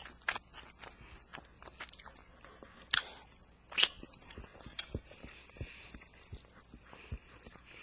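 A person eating close to the microphone: chewing and biting with a run of short, sharp wet mouth clicks, the two loudest about three and four seconds in.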